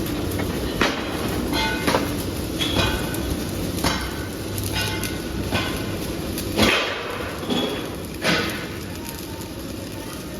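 Metal striking metal in a workshop: a series of clanks about once a second, several leaving a short ringing tone, over a steady low machine hum.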